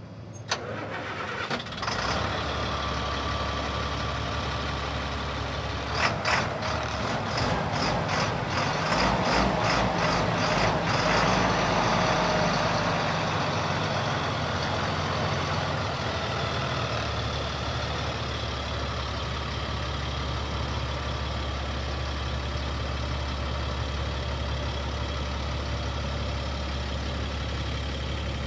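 Caterpillar 3126 diesel engine in a 2000 Freightliner FL70 truck, starting up about half a second in and then idling. About six seconds in it runs louder for several seconds, with a quick run of regular clicks, then settles back to a steady idle.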